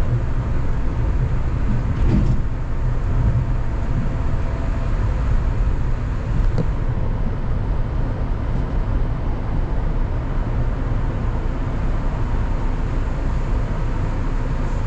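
Kanazawa Seaside Line rubber-tyred automated guideway train running: a steady low rumble, with a couple of faint clicks.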